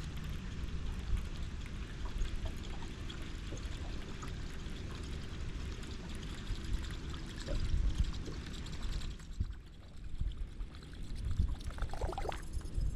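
Choppy water lapping and splashing against a boat hull, with wind rumbling on the microphone. A few light ticks come near the end.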